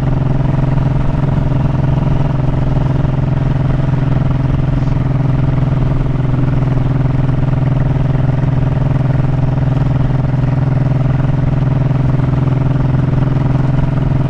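Honda motorcycle engine running steadily at an even speed while riding, its pitch holding level throughout.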